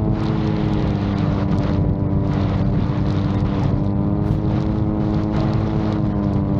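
VTOL drone's propulsion droning steadily in flight, its pitch wavering only slightly, with wind buffeting the microphone.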